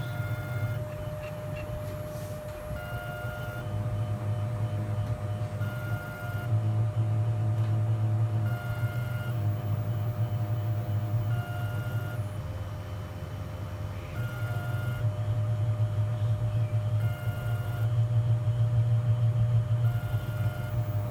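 Prototype drill running as it bores through pig ear, a low motor hum that swells and eases as the load changes, with a short high beep about every two seconds.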